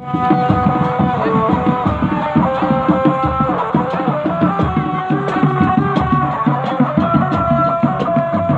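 Traditional Javanese percussion ensemble playing: rapid hand-drum strokes drive a steady rhythm under a held melody line that moves from note to note.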